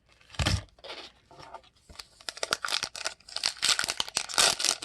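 A single thump about half a second in, then a foil trading-card pack wrapper crinkling and tearing open, a dense crackle that grows louder toward the end.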